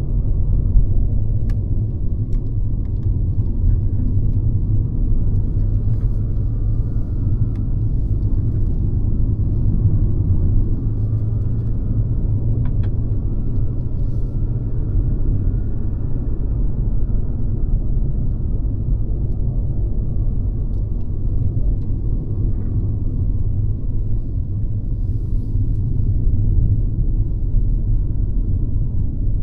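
Mercedes-Benz C-Class (W206) car driving: steady low rumble of the engine and tyres on the road, with a few faint clicks.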